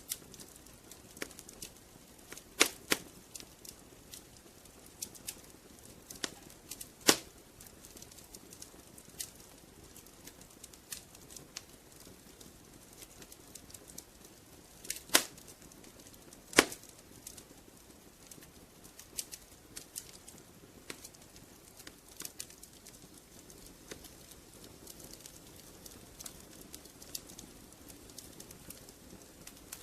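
Wood fire in a fireplace crackling: irregular small clicks over a soft low hiss, with a few sharper pops, the loudest about 7 s and 16.5 s in.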